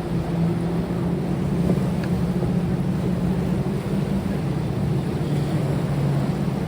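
A motor engine running steadily, a low even hum over a wash of noise.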